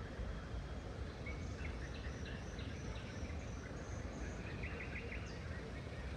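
Outdoor ambience: a steady low rumble of background noise with faint bird calls over it, short chirps in several quick series between about one and five seconds in.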